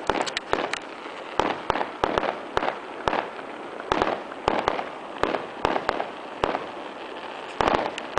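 Fireworks exploding: a rapid, irregular run of sharp bangs and reports, several a second at times, over a continuous crackle.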